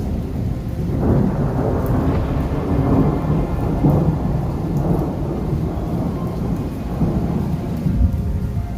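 Thunder rumbling after a lightning strike: a long, low roll that swells about a second in, surges several times, then slowly dies away, over falling rain.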